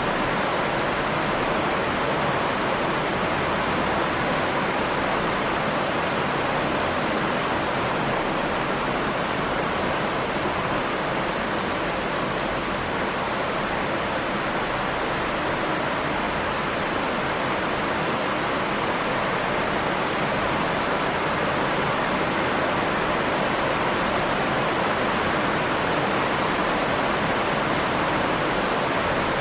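Steady rain, a constant even hiss without separate drops or thunder standing out.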